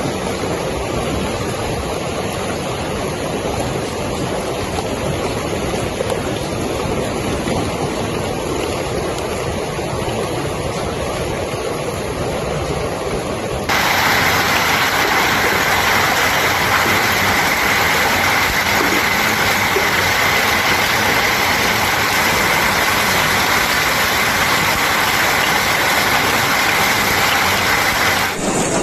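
Heavy hail and rain beating down as a dense, steady din. About halfway through, a cut to another recording makes it louder and brighter.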